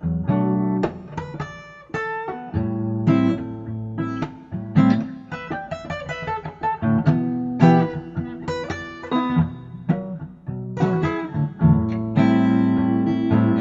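Acoustic guitar playing an instrumental passage, with chords strummed and picked in a steady run of notes.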